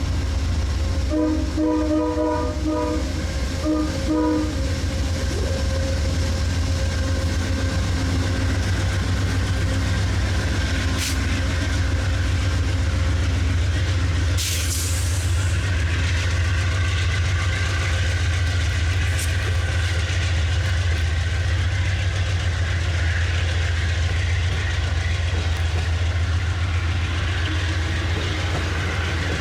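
A diesel train's horn sounds two blasts, the first longer, over the steady low rumble and rail clatter of a train running past. There is a brief hiss of air about halfway through.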